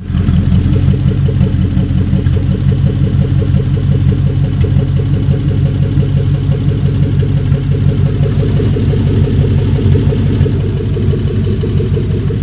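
Freshly installed Toyota 1UZ-FE 4.0-litre V8 starting up at once and idling steadily and loudly, unsilenced because the turbo's wastegate outlet is still an open pipe. It runs smoothly with no knocking.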